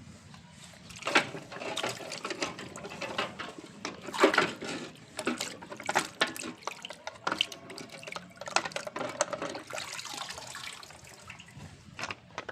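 Water splashing and trickling over a muddy toy tractor as it is washed, in uneven spurts with many short splashes and knocks.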